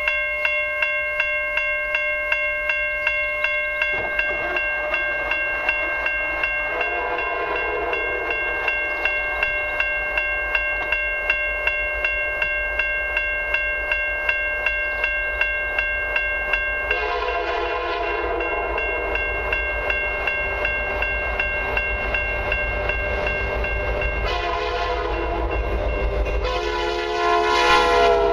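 Level-crossing warning bell dinging about twice a second while a CN freight locomotive's horn sounds the crossing signal: a faint long blast about a quarter of the way in, then a loud long blast, a short one and a final long one near the end. A low rumble of the approaching train builds under the last blasts.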